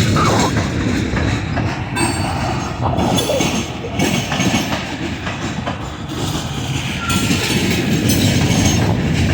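Train rolling past: a steady heavy rumble with repeated clicks of the wheels over the rails.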